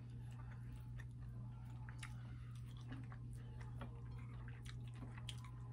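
Faint chewing and small wet mouth clicks of a person eating fried chicken wings and rice by hand, over a steady low hum.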